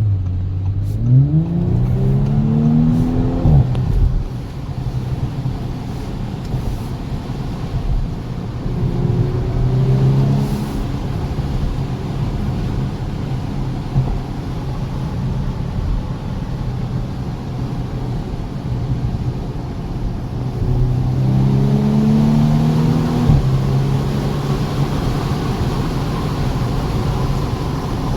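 2019 Audi S5 Sportback's turbocharged V6 accelerating hard, the revs climbing for a few seconds and dropping sharply at a shift, then running at speed under a steady rush of road and wind noise. The revs climb and drop once more a little after twenty seconds.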